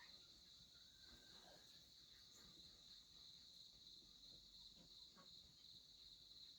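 Faint, steady high-pitched chirring of insects, with a few faint soft knocks.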